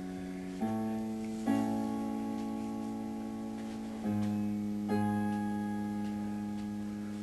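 Background music: slow, sustained electronic keyboard chords, a new chord struck every second or few.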